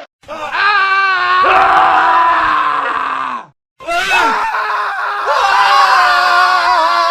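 Men screaming: a montage of separate screams cut back to back, with abrupt cuts and brief silent gaps near the start and about three and a half seconds in.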